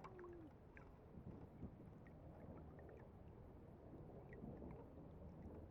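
Near silence: a faint, steady low rumble of outdoor air with a few faint ticks.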